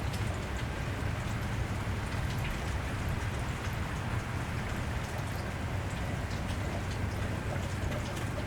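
Steady cold rain falling on a wet street, with scattered drops ticking and a low steady rumble underneath.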